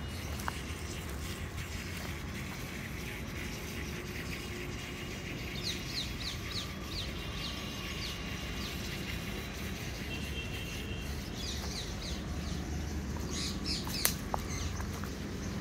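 Wild birds chirping in two short runs of quick high notes, one around the middle and one near the end, over a steady low rumble. A single sharp click sounds about 14 seconds in.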